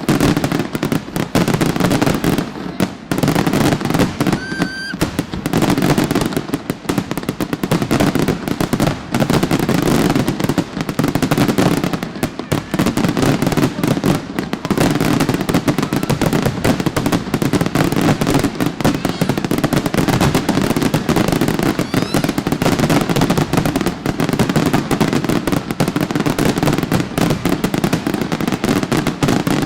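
Fireworks display: a dense, unbroken barrage of rapid bangs and crackles, with a short high whistle about four and a half seconds in.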